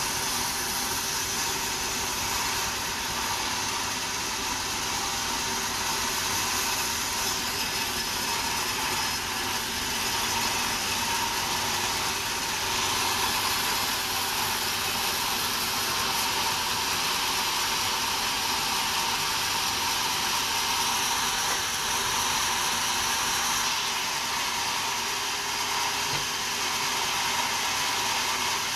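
Sawmill saw and machinery running with a steady, even noise and a constant hum.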